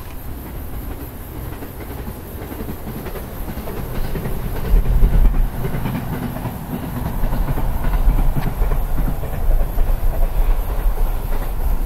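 Electric multiple-unit train running along the rails at a distance, with faint wheel clicks. About halfway through, wind buffeting on the microphone comes in and becomes the loudest sound.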